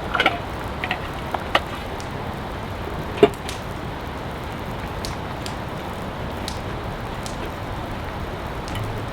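Steady heavy rain, with a handful of sharp taps scattered through it; the loudest tap comes about three seconds in.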